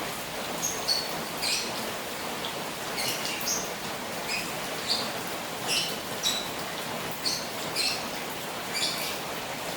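Steady rain falling on a koi pond, with many short high-pitched blips scattered through it, several a second at times.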